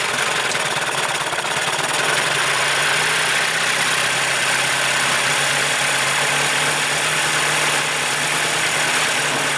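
1975 Evinrude 40 hp two-stroke outboard running steadily at low speed, its note settling to a constant pitch about two seconds in. It has been acting as though one cylinder had dropped out, which the owner later puts down to intermittent spark.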